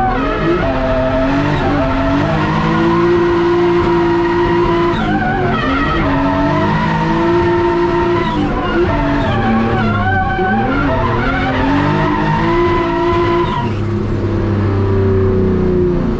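Turbocharged BMW M50B20 straight-six in a Nissan 180SX drift car, heard from onboard, run hard and held at high revs through long slides, the revs dropping and climbing back several times. Tyres skidding under it.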